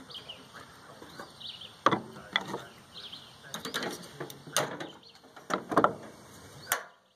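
Irregular sharp knocks and clanks of a microwave being taken apart by hand, about eight of them from about two seconds in, with birds chirping in the background. The sound cuts off abruptly at the end.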